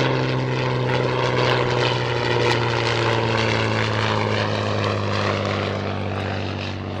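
A Hawker Fury Mk I biplane's Rolls-Royce Kestrel supercharged V12 piston engine running in flight, a steady propeller drone. Its pitch sinks slightly and it fades a little toward the end as the aircraft passes.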